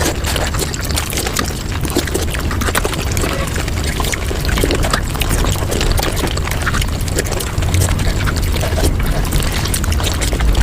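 Mukbang eating sounds sped up five times: chewing and mouth sounds running together into a dense, continuous patter of clicks and smacks over a low rumble.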